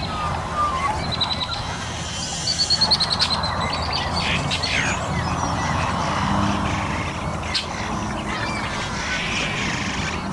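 Duck and small-bird calls: quick runs of high repeated chirps about a second in and again from about two and a half to three and a half seconds, with scattered calls after.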